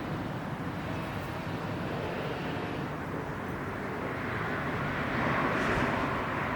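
Steady outdoor rushing background noise, swelling about four seconds in and easing near the end.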